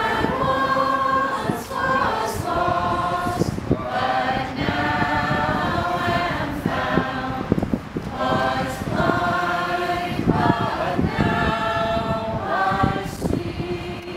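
A group of voices singing together in phrases of held notes, with wind buffeting the microphone in low rumbles.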